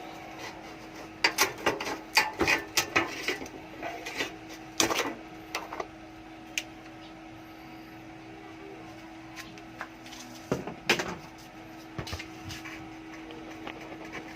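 Irregular clicks, taps and knocks of objects being handled, bunched in the first few seconds and again around ten to eleven seconds in, over a steady low hum.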